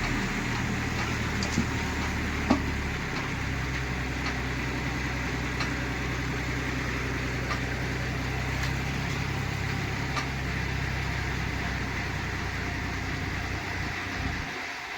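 Heavy diesel engine running steadily at low revs, its note shifting slightly about three seconds in, with a few sharp knocks early on.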